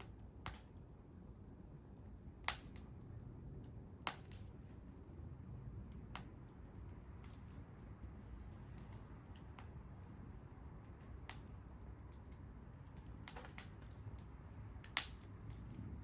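Wood fire crackling: scattered sharp pops, about seven of them, the loudest near the end, over a low steady rumble.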